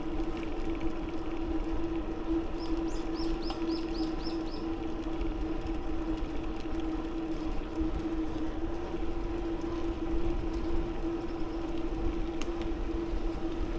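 Steady hum and wind rumble of a bicycle being ridden along a paved path. About three seconds in comes a quick run of about seven high chirps.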